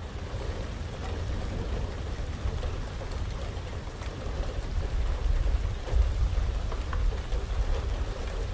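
Heavy rain pattering steadily during a thunderstorm, with scattered drop ticks over a deep low rumble that swells in the second half.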